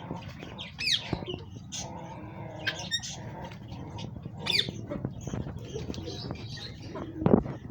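A flock of poultry calling: a bed of clucks and calls, with two sharp, high falling chirps about a second in and again at about four and a half seconds, and a loud burst near the end.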